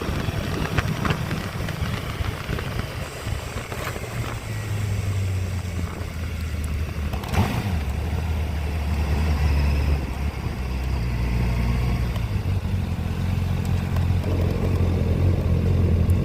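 Honda motorcycle engine running under way. Its low note steps to a new pitch twice, about four seconds in and again near the middle.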